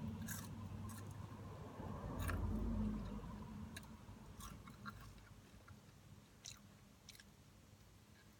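Person chewing fast food close to the microphone, with scattered small clicks and crunches. The chewing is loudest about two to three seconds in, then fades.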